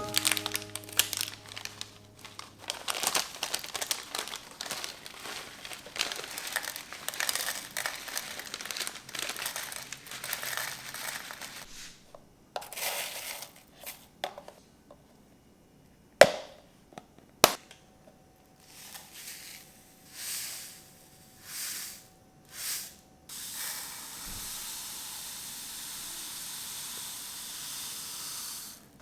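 Crinkling and rustling of packaging being handled for about twelve seconds, then two sharp clicks a second apart, several short swishes, and a steady hiss through the last five seconds.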